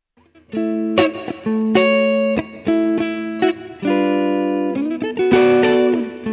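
Electric guitar played through a Poly Effects Poly Verbs impulse-response reverb pedal: a choppy rhythm of struck chords, starting about half a second in, with each chord cut off short before the next.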